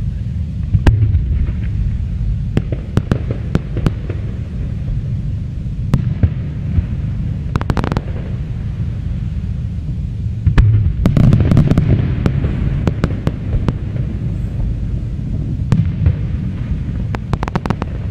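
Aerial fireworks display: a string of sharp bangs and crackles over a steady low rumble, thickening into rapid volleys about halfway through and again near the end.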